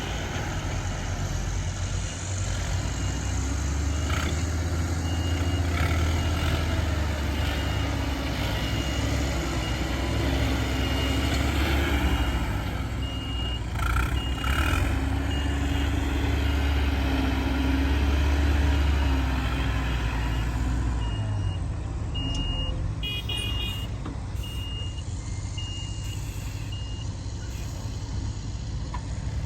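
Heavy diesel engine of earthmoving machinery running under load, its pitch rising and falling, with a reversing alarm beeping over it again and again. The engine falls quieter about two-thirds of the way through while the beeping goes on.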